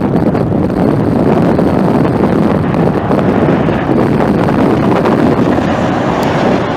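Strong wind buffeting the microphone: a loud, steady noise.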